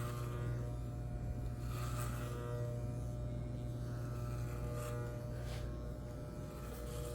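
Electric hair clippers with a long guard comb fitted, buzzing steadily as they run through a man's hair.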